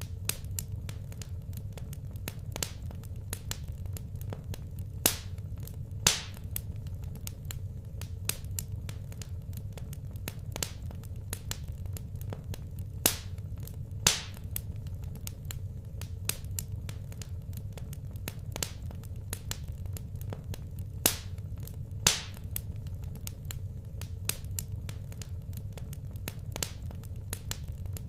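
Wood fire crackling in a fireplace: constant irregular small snaps, with a louder pop every few seconds, over a low steady rumble.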